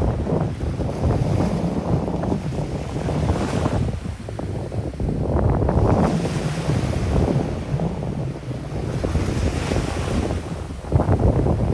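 Sea waves washing onto a sandy beach under strong wind, the wind buffeting the microphone in a low rumble that gusts and eases, dipping briefly about four seconds in.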